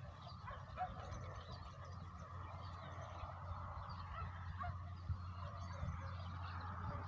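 Birds calling: many short overlapping calls, with a steady low hum underneath.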